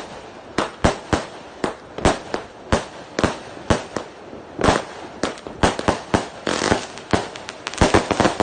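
Fireworks going off: a rapid, uneven run of sharp bangs, about two or three a second, with crackling filling the gaps near the end.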